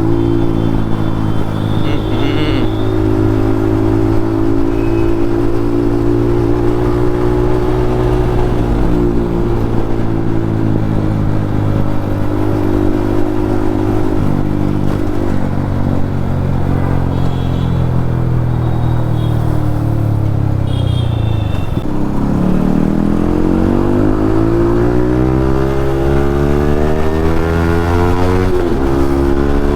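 Yamaha MT-15's single-cylinder engine through an aftermarket Akrapovic exhaust, running at fairly steady road speed, dropping off about three quarters of the way through as the throttle closes, then rising in a long climb of revs with a brief dip near the end at a gear change.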